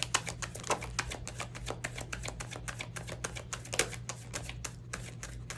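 Tarot cards being shuffled by hand, a fast, uneven run of sharp card clicks and slaps, with a steady low hum underneath.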